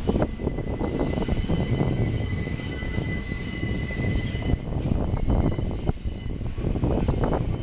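R68-family New York City subway train rolling by: a loud, steady rumble with irregular clattering of wheels on the track and a faint high whine.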